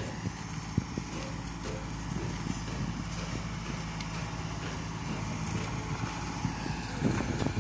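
An engine running steadily with a low hum, with a single sharp knock about a second in and a louder rush of sound near the end.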